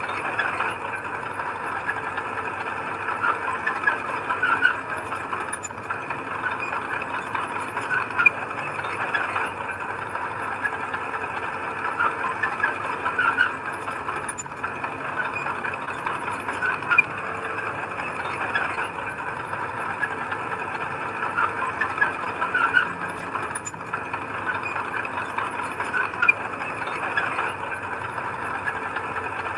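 Heavy earthmoving machinery working: a steady diesel engine noise with short, irregular sharp sounds scattered through it.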